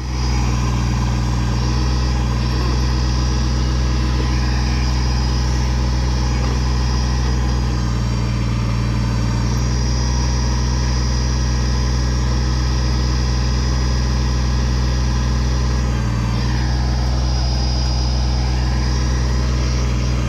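Kubota tractor's diesel engine running steadily while the backhoe is being worked, its note dipping slightly twice as the load changes.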